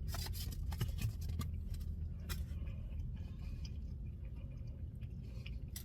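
Light clicks and crackles of a cardboard takeout box and paper being handled, crowded together for the first couple of seconds and then sparser, over a steady low hum.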